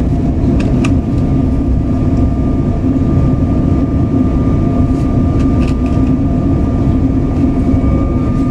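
Running noise heard inside a Stadler Flirt 4 electric multiple unit (Slovenian Railways class 510) under way: a steady rumble with a thin steady whine over it, and a few faint sharp ticks.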